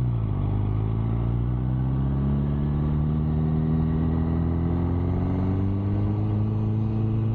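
MV Agusta Brutale motorcycle engine under gentle throttle, its pitch rising slowly and evenly as the bike gains speed.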